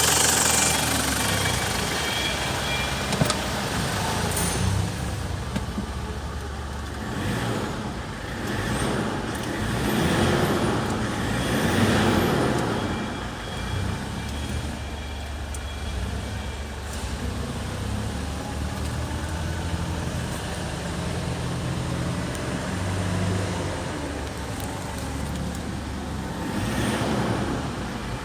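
Ford Ranger 2.5-litre engine with 236,554 km on it, running steadily at idle, its sound swelling a few times, around the middle and near the end.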